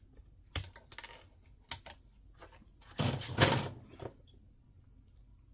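Small plastic model-kit parts clicking as they are handled and fitted: a few separate sharp clicks, then a denser clatter about three seconds in.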